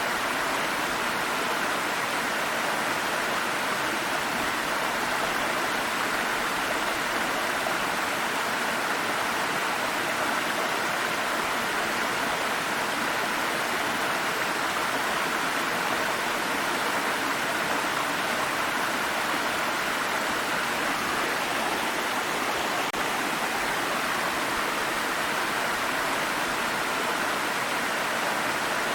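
Water stream flowing and rushing over rocks, a steady even splashing with no pauses.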